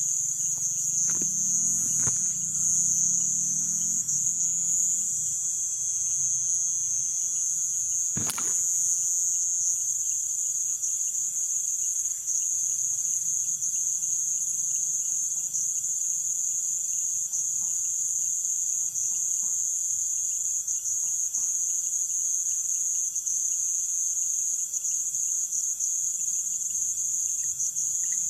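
Dense nighttime chorus of crickets and other insects in Amazonian rainforest, a steady high-pitched trilling with a fainter lower-pitched trill under it. A few sharp clicks stand out about one, two and eight seconds in.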